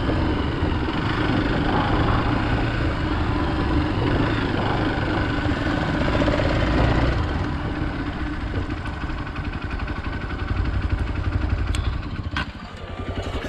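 Hero Xpulse 200 motorcycle's single-cylinder engine running while riding off-road, settling into a slower, pulsing beat in the second half. A few sharp clicks sound near the end.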